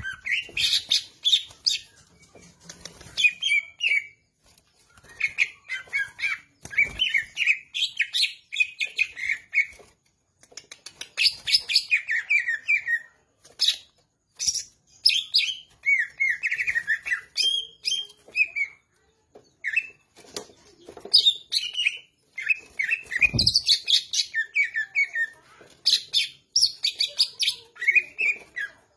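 Green leafbird (cucak ijo) singing vigorously in rapid phrases of varied chirps and whistles, with short pauses between phrases.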